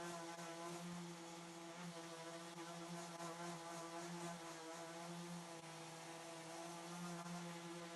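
Electric power tool motor running at a steady speed: an even hum with hiss.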